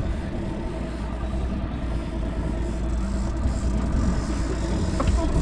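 Fishing boat's engine running steadily at low speed, a constant low rumble with a faint hum.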